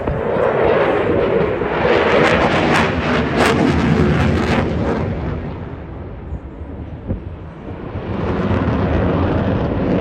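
Eurofighter Typhoon fighter jet with twin turbofan engines flying a display: loud jet noise that eases off just after the middle and builds again near the end.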